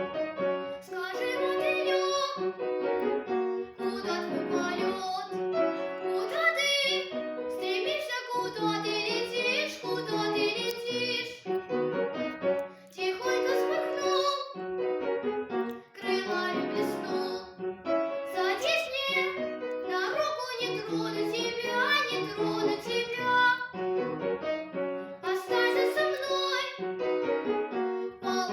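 A young girl singing a classical children's song solo, in phrases broken by short breaths, with piano accompaniment.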